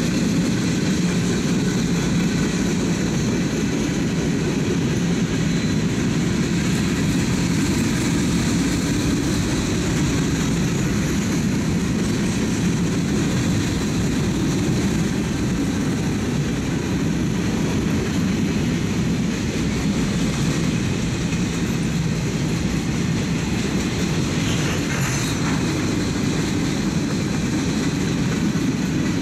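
Freight train cars, covered hoppers and boxcars, rolling past: a steady rumble of steel wheels on the rails.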